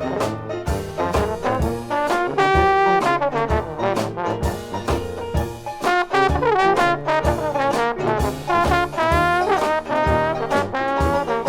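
Dixieland jazz band playing an instrumental passage: several brass and reed lines weave together over a steady beat.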